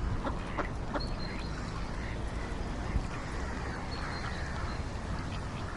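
Ducks quacking, a few short calls mostly in the first second, over a steady background noise.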